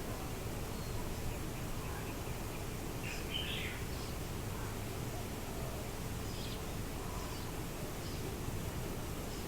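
Faint, scattered bird chirps over a steady low outdoor rumble, the clearest chirping coming about three and a half seconds in.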